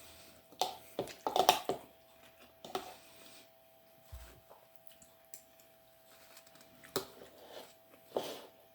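Mukbang eating sounds: scattered short clicks of a utensil against a dish and bits of chewing, with a faint steady hum underneath.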